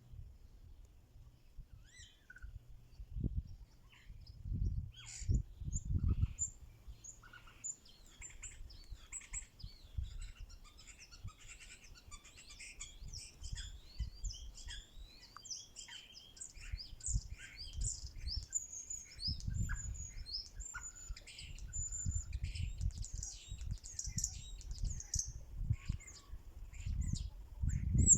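Spring birdsong: a thrush singing among other birds' high chirps and trills. The calls are sparse for the first several seconds, then fill in densely. Irregular low rumbling bumps run underneath and make the loudest moments.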